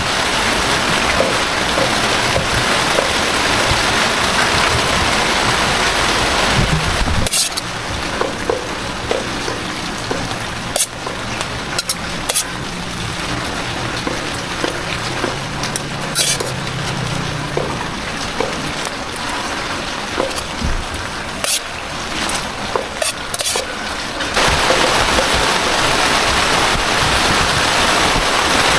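Heavy rain falling in a dense, steady hiss. About seven seconds in it drops to a quieter stretch broken by scattered sharp taps and clicks, and the loud downpour returns about two-thirds of the way through.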